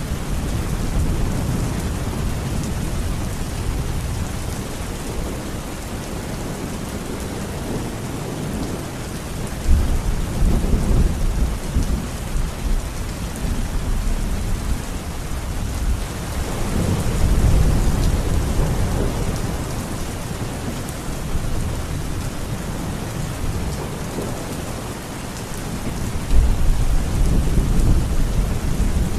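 Steady heavy rain with thunder rumbling three times: about ten seconds in, around the middle, and again near the end.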